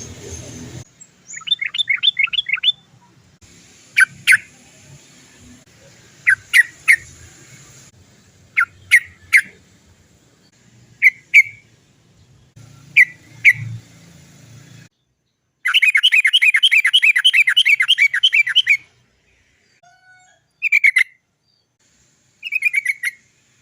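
Yellow-vented bulbul calling in short bubbly phrases of a few notes each, then a long rapid rolling trill lasting about three seconds, followed by a couple more short calls.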